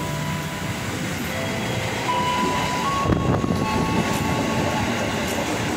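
An electric KRL commuter train pulling in and rolling past along the platform: a rumble of wheels on rail that grows to its loudest about three seconds in, with a thin, steady high whine over it.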